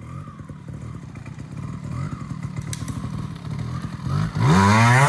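TRS 125 trials motorcycle's two-stroke engine running at low revs, then revved hard about four seconds in, its pitch climbing quickly.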